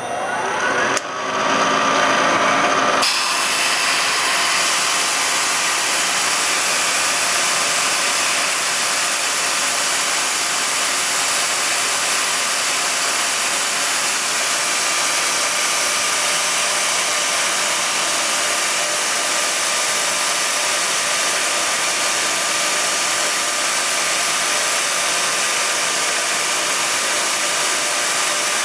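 Power-driven threading tool spinning up in the first second or so, then running steadily as it cuts threads in an aluminum bronze spark plug insert.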